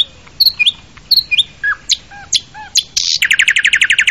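Birds chirping: a string of short, sharp chirps and whistled notes several times a second, then a fast trill of rapidly repeated notes in the last second.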